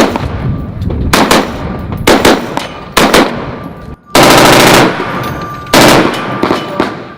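Gunfire at an outdoor shooting range: single shots about a second apart, some in quick pairs, then a short burst of full-automatic fire about four seconds in, followed by one more shot.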